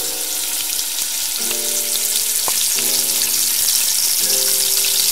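Potato slices frying in hot oil in a pan: a steady sizzle with fine crackling that grows a little louder as more pieces go in. Soft keyboard music plays underneath.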